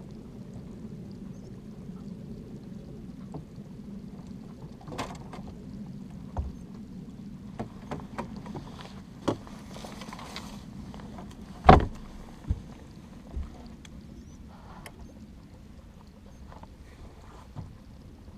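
Small fishing boat under way on a lake: a steady low hum with water noise, broken by several sharp knocks, the loudest a little under halfway through.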